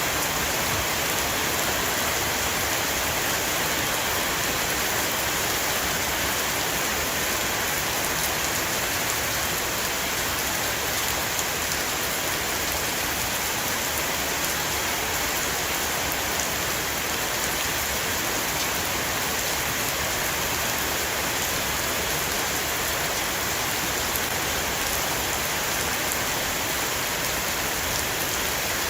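Heavy, steady rain shower falling on a roof, an even hiss of rain with many fine drop ticks.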